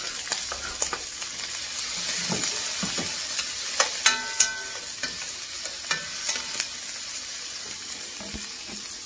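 Chopped vegetables sizzling in a frying pan for a stir fry while a utensil stirs them, with scattered scrapes and knocks against the pan. A few sharp metal clinks about four seconds in are the loudest moments, one briefly ringing.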